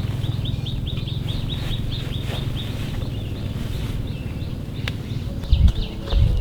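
A small bird calling a fast run of short, downward chirps, about ten a second, which trails off and returns briefly near the end, over a steady low rumble. A couple of sharp clicks, and two dull low thumps near the end.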